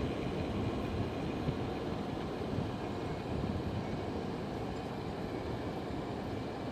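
Steady rumbling noise of a vehicle in motion.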